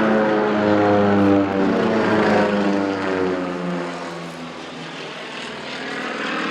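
Single-engine propeller aeroplane flying past, its engine note falling slowly in pitch and fading, then growing louder again near the end.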